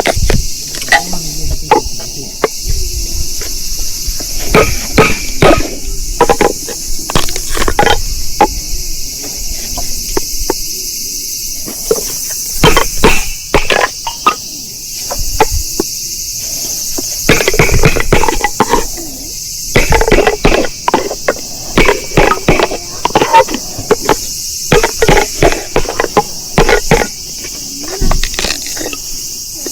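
Firewood being split: repeated sharp knocks and cracks of wood being struck, coming in irregular clusters, over a steady high chirring of crickets and other insects.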